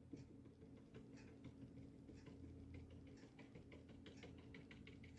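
Faint, irregular light taps of a paintbrush dabbing gouache onto paper, over a low steady hum.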